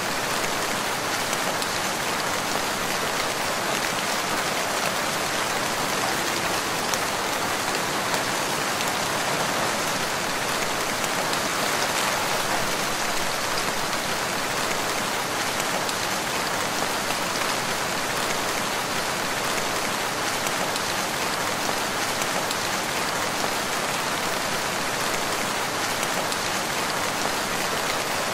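Steady rainfall, an even hiss of raindrops falling on leaves and ground.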